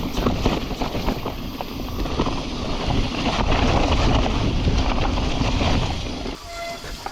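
Wind rushing over an action camera's microphone as a mountain bike descends a trail, with tyre noise and rapid rattling knocks from the bike over rough ground. Near the end the rush drops and the disc brakes begin to squeal.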